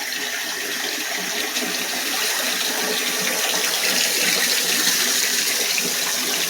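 Water running steadily from a tap into a tub while a dog is rinsed off after a bath.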